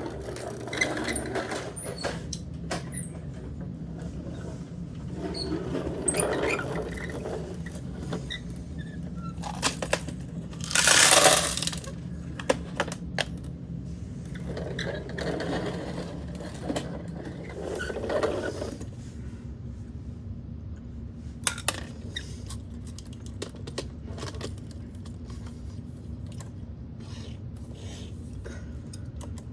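Plastic toy garbage trucks being handled, with parts clattering, scraping and clicking over a steady low hum; one louder rushing burst comes about eleven seconds in.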